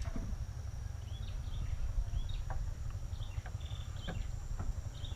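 Outdoor ambience: short bird chirps repeating every second or so over a steady high insect drone and a low, steady rumble, with a few faint light clicks.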